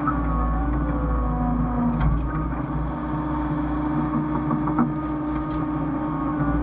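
Hyundai excavator's diesel engine running steadily, its pitch shifting slightly, with two sharp knocks, about two seconds in and again near five seconds.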